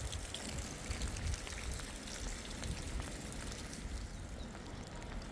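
Rain falling: a steady patter of many small drop ticks over a low rumble.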